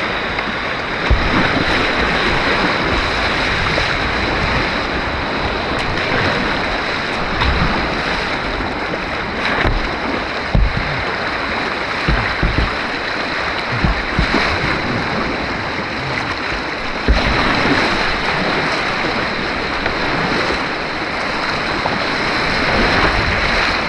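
Steady rush of churning white water on an artificial white-water course, heard close from a kayak, with scattered brief low thumps.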